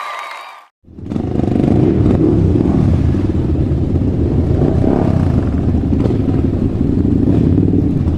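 A motor vehicle's engine running with a steady low rumble that cuts in abruptly about a second in, after a brief silence.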